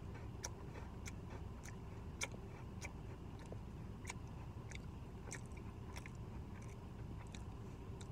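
A person chewing a bite of a Twix cookie dough bar, with soft mouth clicks a little under two a second.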